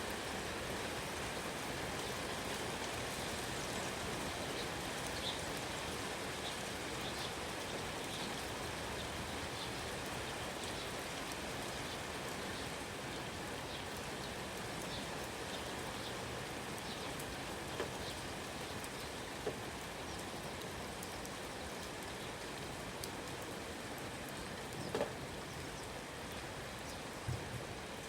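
Steady rain falling and pattering on surfaces, with a few louder single drips or knocks in the second half. Faint short, high chirps of birds sound through the rain in the first half.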